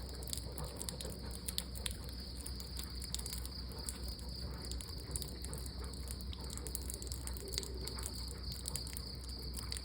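Steady high-pitched insect chirring, like crickets, with scattered small irregular clicks and taps over it.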